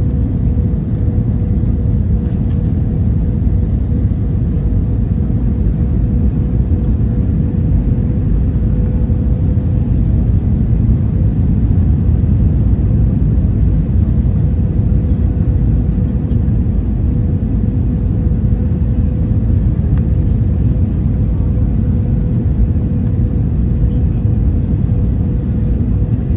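Steady cabin drone of an Airbus A321 airliner heard from an economy window seat: an even low rumble of engines and airflow with a faint steady hum above it.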